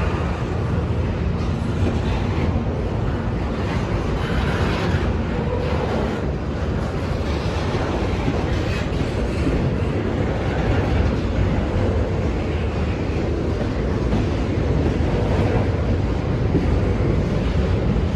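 Norfolk Southern intermodal freight train rolling past, a steady rumble of wheels on the rails.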